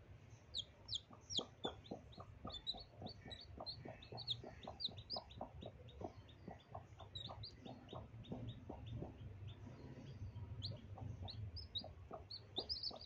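Newly hatched chicks peeping in many short, high chirps, with a mother hen clucking low and repeatedly.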